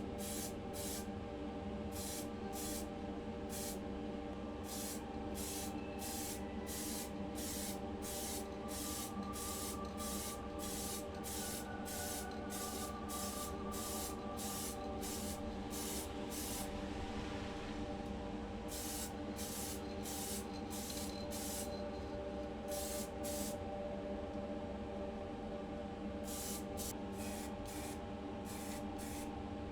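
Paint sprayed in short hissing bursts, about two a second, as a colour coat goes onto a diecast car body. There is one longer continuous spray about two-thirds of the way through and a short pause before the bursts resume. A steady hum with a few fixed tones runs underneath.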